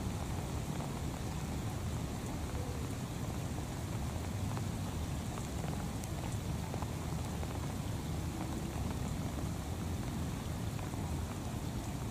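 Steady rain falling on shallow floodwater and grass, an even hiss with no breaks.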